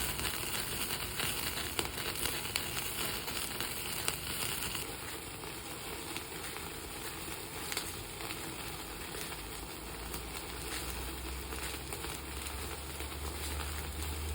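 Horumon (offal) sizzling over a wood fire, with the fire crackling and scattered small pops.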